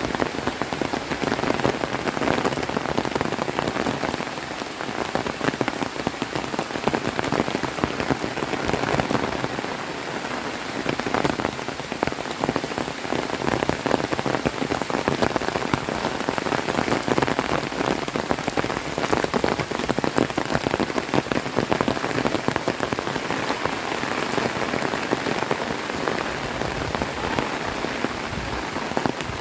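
Heavy rain falling steadily, a dense hiss of pattering drops striking surfaces close by.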